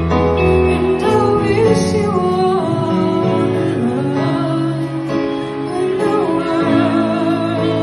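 Live band performing a slow ballad: a female lead vocal sings long, wavering notes over sustained instrumental accompaniment.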